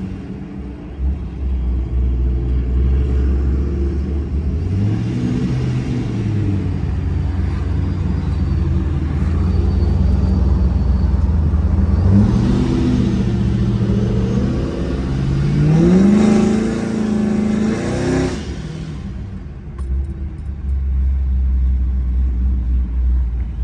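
Modified V8 car engine with a loud exhaust, rumbling at idle and revved several times. There are short rev rises about 5 and 12 seconds in, then a longer climb in revs from about 15 to 18 seconds before it drops back to idle.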